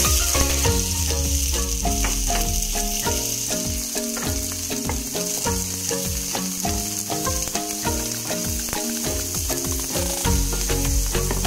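Diced onion sizzling in hot oil in a frying pan: a steady sizzle that starts suddenly as the onion hits the pan. Background music plays throughout.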